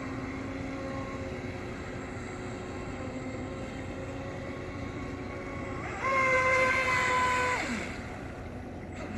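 Speedboat engine running steadily, then revved up about six seconds in, held high and louder for a second and a half, and throttled back down.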